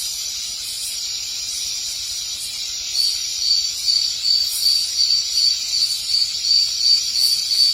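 Insects calling: a steady high hiss, joined about three seconds in by a regular high chirp repeating roughly three times a second.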